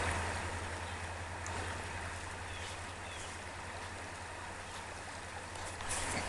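A small stream flowing steadily: an even, continuous rush of running water.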